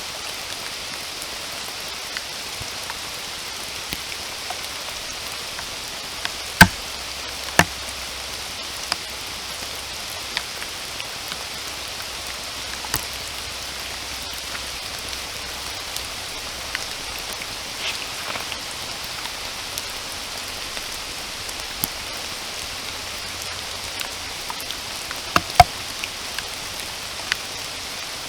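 Steady rain falling, with scattered louder drops striking close by; the sharpest hits come about six to seven seconds in and again a few seconds before the end.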